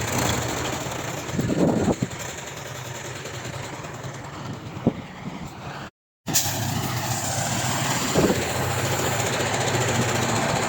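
Diesel engine of heavy earthmoving machinery running steadily, with a few short metallic clanks. The sound drops out abruptly for a moment about six seconds in, then resumes.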